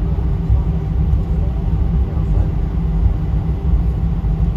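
Steady low rumble inside an airliner cabin after landing, with a faint murmur of passengers' voices.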